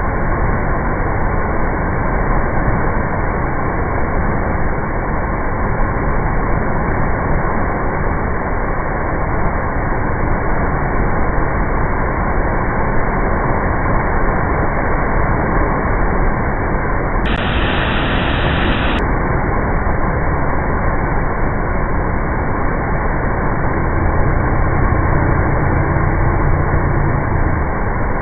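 River in monsoon flood rushing steadily: a dense, unbroken noise of fast water with a deep rumble underneath.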